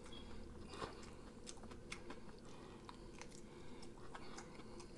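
Faint chewing: soft, irregular mouth clicks and ticks as a person chews rotisserie chicken with the mouth closed.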